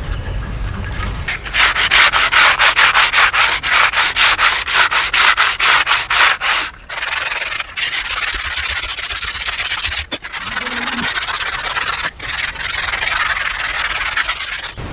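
Surface of a piston part being rubbed down by hand: quick back-and-forth scratchy strokes, about five a second for a few seconds, then steadier rubbing broken by a few brief pauses.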